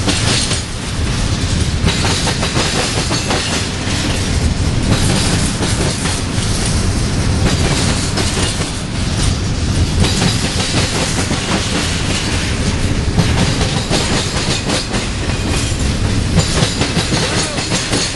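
Union Pacific double-stack intermodal train rolling past, its well cars' steel wheels rumbling and clattering steadily over the track with rapid clicks.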